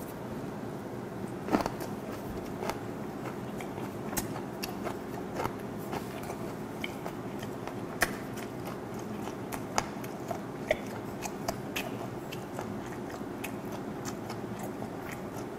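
Close-up mouth sounds of chewing fermented skate (hongeo) wrapped in aged kimchi: irregular wet, sticky clicks and smacks as the chewy fish is worked, with a louder bite about a second and a half in and another about 8 seconds in.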